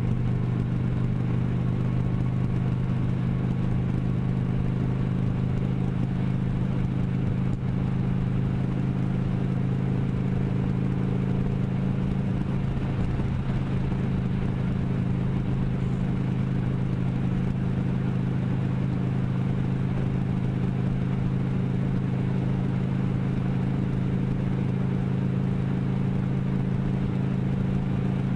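Motorcycle engine running at steady revs while riding, its pitch holding constant throughout.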